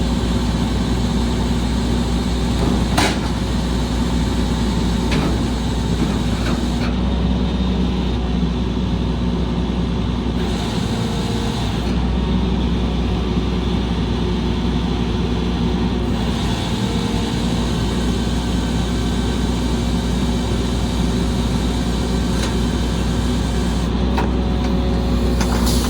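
Diesel engine of a Volvo Xpeditor rear-loader trash truck running steadily, with a few sharp knocks, the clearest about three seconds in.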